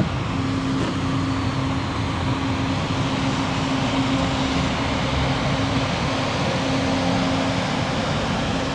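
Steady city street noise with a low mechanical hum and a steady drone that drops in and out.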